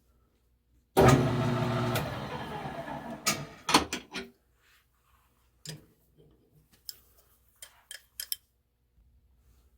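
Metal lathe starts abruptly and runs for about two seconds, fading as it goes. A few clunks follow, then a scattered string of light metallic clicks from tools being handled.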